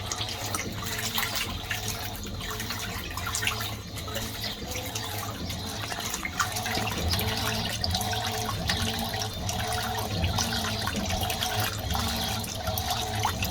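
Fisher & Paykel MW511 top-loading washing machine running a wash cycle, with water swishing in the tub over a steady mechanical hum.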